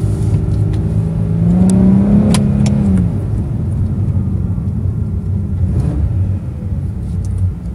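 Nissan 370Z's 3.7-litre V6 heard from inside the cabin on the move. The engine climbs in pitch under acceleration for about a second and a half, breaks off about three seconds in, then runs steadily.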